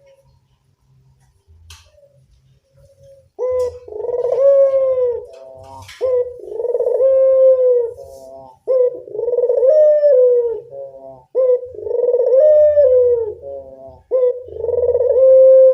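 Local puter dove (Barbary dove) cooing again and again, used as a lure call to draw in other doves. The coos start about three and a half seconds in, each a long, rising-then-falling call of about two seconds, one after another with short breaks.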